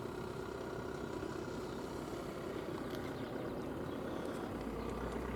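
Steady outdoor background at a car show: an even low rumble and hum with a few faint ticks, with no single sound standing out.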